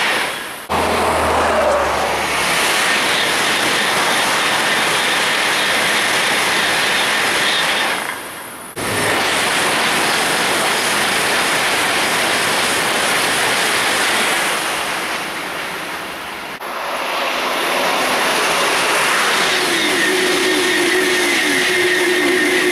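Eurostar Class 373 high-speed electric trains passing at speed: a loud, steady rush of air and wheels on rail. The sound breaks off and restarts abruptly twice, and near the end a whine repeatedly slides down in pitch.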